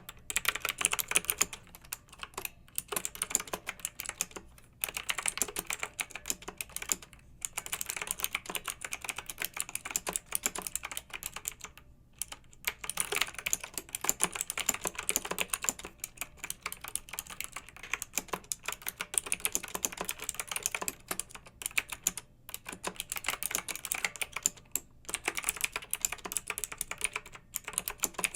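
Clicky mechanical keyboard being typed on in fast, steady runs of keystrokes, broken by brief pauses every couple of seconds.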